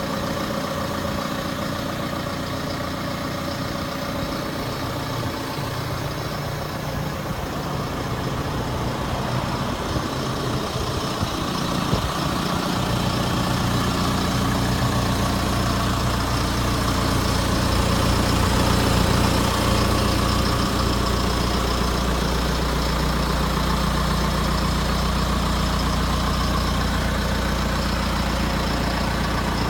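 John Deere 6230 tractor's diesel engine running steadily; about twelve seconds in its low rumble grows stronger and louder, then holds.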